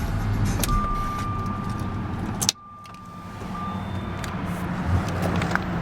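1997 Jaguar XK8's 4.0-litre V8 idling, then switched off about two and a half seconds in, the hum cutting out suddenly. A steady electronic tone sounds from about a second in until just after the shutdown.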